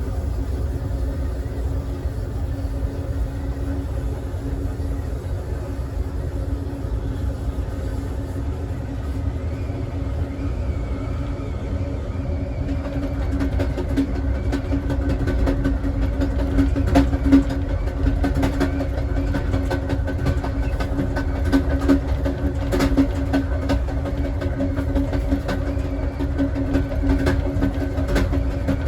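Amtrak Southwest Chief passenger train running along the track, heard from its last car: a steady low rumble of wheels on rail with a constant hum. About halfway through it gets a little louder and scattered sharp clicks come in.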